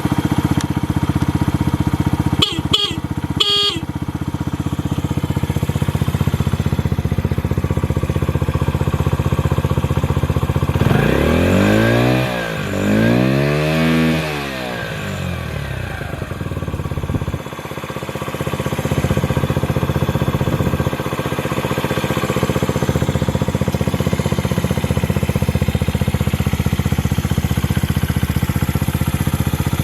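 Honda Ape 50's single-cylinder four-stroke engine with a BEAMS aftermarket muffler idling steadily. Partway through it is blipped twice, the pitch rising and falling each time, before settling back to idle. A few sharp clicks come about three seconds in.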